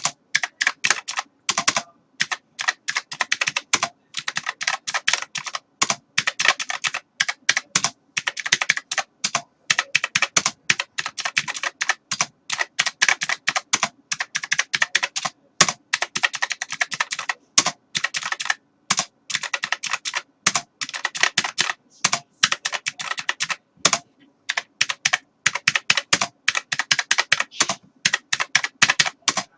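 Typing on a computer keyboard: rapid runs of key clicks in bursts of a second or two, broken by short pauses.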